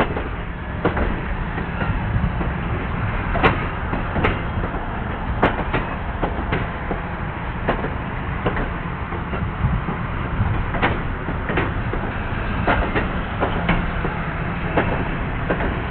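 Railroad cars of a passing train rolling by, a steady rumble broken by irregular sharp clicks and clanks of wheels and couplers.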